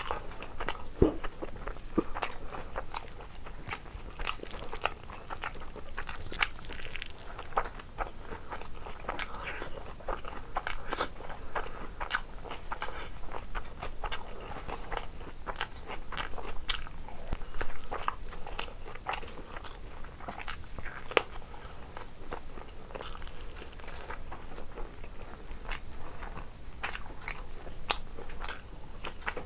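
Close-up eating sounds: a person biting and chewing crunchy fried food, with many small crackles and crunches.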